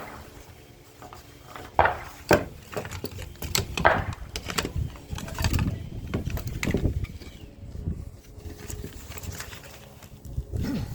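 Copper wire and plastic parts being pulled and handled while a broken back massager is taken apart for scrap: a string of sharp clicks and knocks, the loudest about two and four seconds in, with rustling and low rubbing between them.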